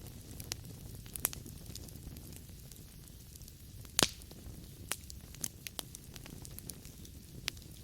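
Wood logs burning in a fireplace: a steady low rumble of flames with irregular sharp crackles and pops, the loudest pop about four seconds in.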